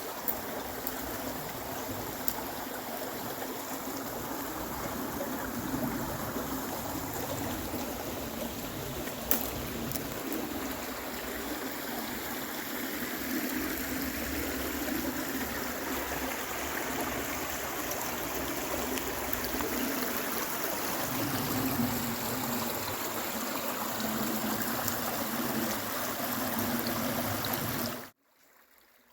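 River water running steadily over stones, with a few faint clicks; it cuts off suddenly near the end.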